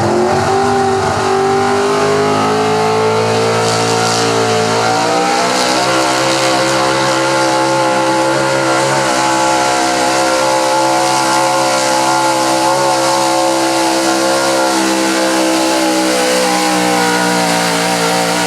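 Small-block V8 of a 1978 Chevrolet 4x4 pickup at high revs under heavy load while pulling a sled. The pitch climbs for the first few seconds, holds high and steady, and sags a little near the end of the pull.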